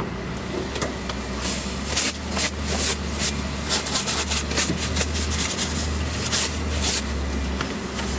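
Vehicle engine idling with a steady low hum, under many short clicks and rustles of things being handled.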